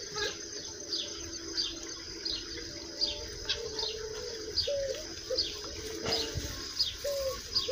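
Birds calling: a short falling high chirp repeated about every two-thirds of a second, with lower short whistled notes in between. A soft low bump about six seconds in.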